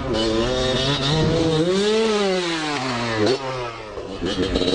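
Motorcycle engine revving: its pitch climbs to a peak about two seconds in and falls away, then it drops off briefly and picks up again near the end.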